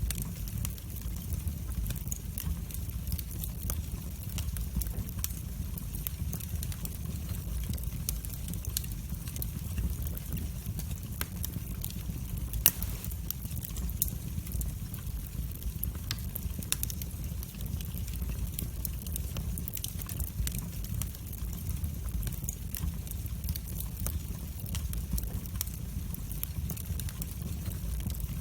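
Wood fire burning in a fireplace: a steady low rumble of flames with frequent sharp crackles and snaps, and one louder pop about twelve seconds in.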